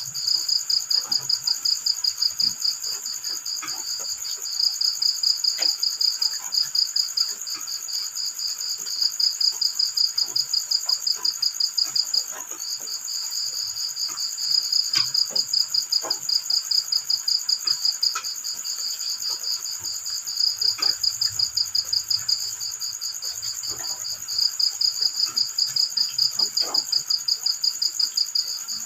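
Crickets chirping in repeated bouts of rapid, high-pitched pulses, each bout lasting a few seconds with short pauses between, over a steady high insect trill. Faint scattered ticks sound underneath.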